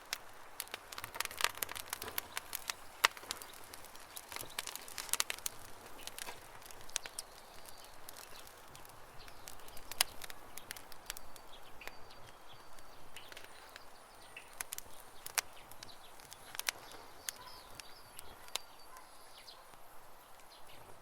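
Campfire crackling, with sharp irregular pops that come thickest in the first few seconds. Birds chirp faintly in the background during the second half.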